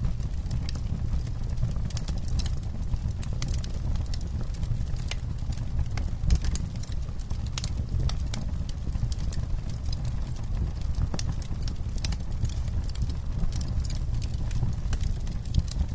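Campfire crackling: wood burning with frequent irregular sharp pops and snaps over a steady low rumble of the fire.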